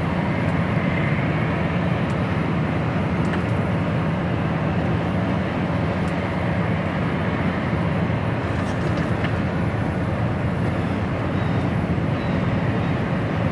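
Steady drone of an HGV lorry's diesel engine and road noise heard inside the cab while driving along.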